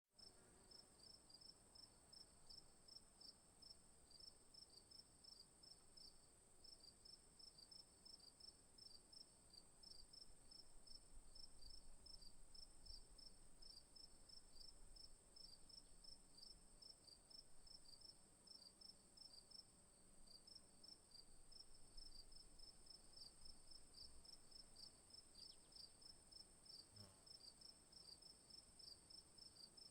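Faint insect chorus: a steady high-pitched buzz with a rapid, even train of chirps beneath it, typical of crickets or cicadas.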